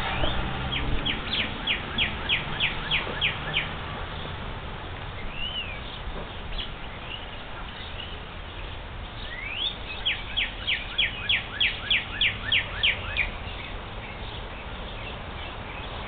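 A songbird singing two phrases of evenly repeated whistled notes, about three a second. The first phrase comes near the start. A single rising-and-falling note follows a few seconds later, and a longer phrase opening with a rising note comes past the middle. A steady low background rumble runs underneath.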